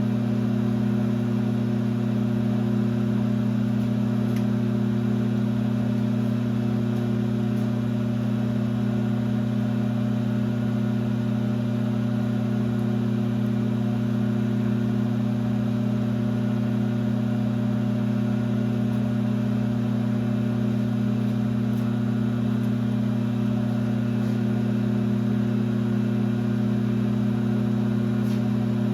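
1966 LeBlond geared-head lathe running at a steady speed, a constant machine hum with no change in pitch or level.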